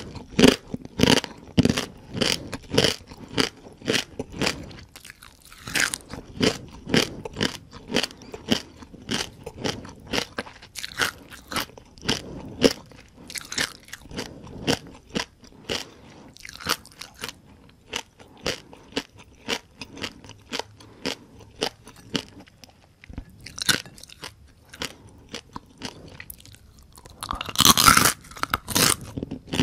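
Close-miked crunching and chewing of whole crispy deep-fried rice-field crabs, the shells cracking in sharp crunches one or two a second, with a denser, louder run of crunches near the end.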